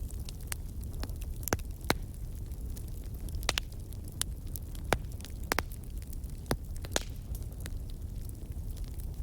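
Log fire in a fireplace crackling: irregular sharp pops and snaps over a steady low rumble of the flames.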